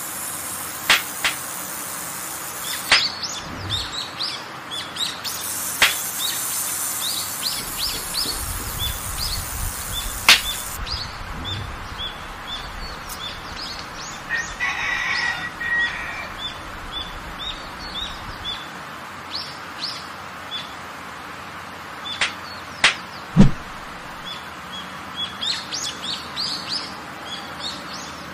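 Birds chirping in short, quick calls repeated over and over, with a few sharp clicks and knocks scattered among them; the loudest is a thump a little over 23 seconds in.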